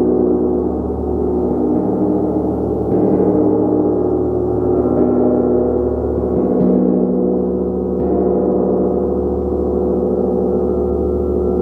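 A gong being struck repeatedly, building a dense, sustained wash of overlapping ringing tones. New strikes land about every one and a half to two seconds and keep the sound at an even level.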